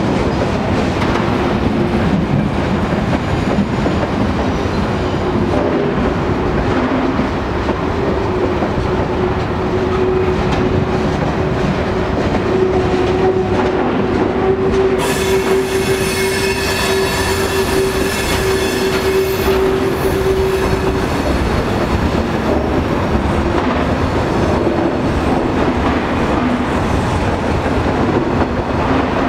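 Freight cars of a long train rolling past on curved track: a steady rumble and clatter of steel wheels on rail. Through the middle, wheel flanges squeal in a steady tone, with a shriller, higher squeal for a few seconds just past halfway.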